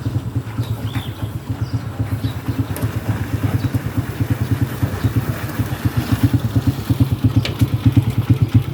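A small engine running steadily with an even, rapid throb, getting a little louder in the last few seconds.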